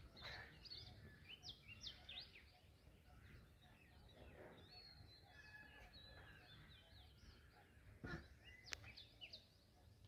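Faint birdsong: several small birds chirping with quick, high calls, over a low background rumble. A soft knock and a sharp click a little after eight seconds in.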